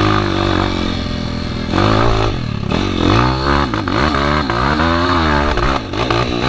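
Dirt bike engine revving hard, its pitch rising and falling again and again as the throttle is worked.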